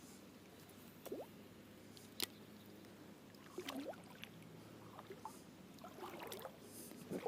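Faint river water sloshing and trickling around a person wading, with a few small splashes and sharp clicks.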